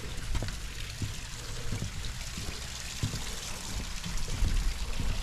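Running water of a small stream trickling and splashing, with occasional low thumps.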